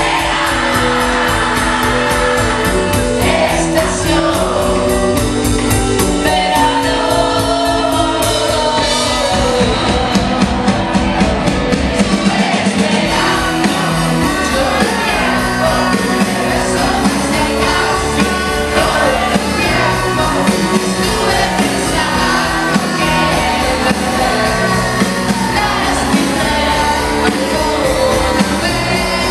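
A band playing a song live with a singer's voice over it, the music steady and loud throughout.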